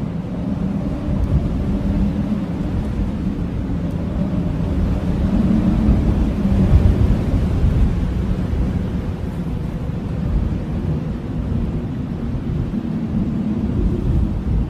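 Blizzard wind howling: a steady low rushing with faint wavering moaning tones, swelling into a stronger gust about halfway through and easing again.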